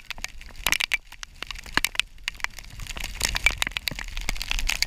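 Heavy rain: a dense, irregular crackle of raindrops hitting close to the microphone and on the boat's deck.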